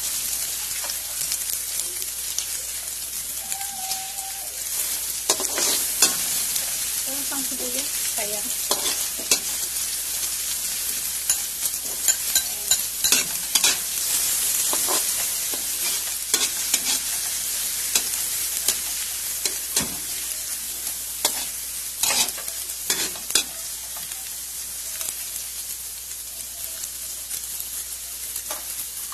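Chopped onion and garlic sizzling in oil in a metal wok, with a spatula scraping and tapping against the pan at irregular moments as it is stirred.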